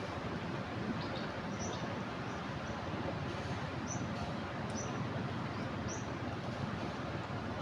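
Swollen floodwater rushing steadily in a river below an overflowing weir, with a small bird giving several short, high chirps a second or two apart.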